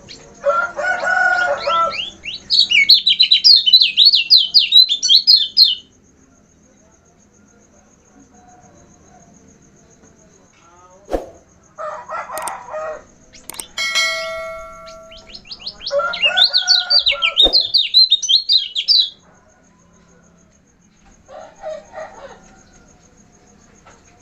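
Kecial kuning (a Lombok white-eye) singing two long bursts of fast, chattering notes, one early and one in the second half, with shorter calls between them. A faint steady high tone sounds throughout.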